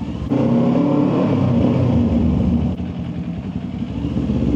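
Sport motorcycle engine running under throttle while riding. It gets louder about a third of a second in and eases off a little after the middle.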